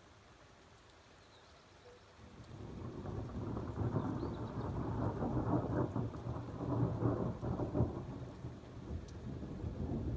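Rolling thunder: a low rumble builds about two seconds in, rolls on loudly for several seconds, eases near the end, then swells again.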